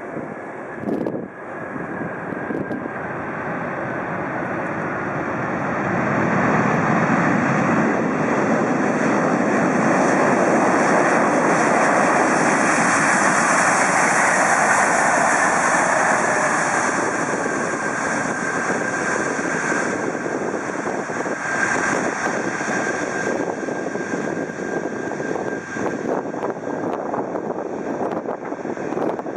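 Four-engined Airbus A340-600 jet airliner, with Rolls-Royce Trent 500 engines, on its landing pass. The engine noise swells to a peak about halfway through and then eases off, with a faint whine slowly falling in pitch.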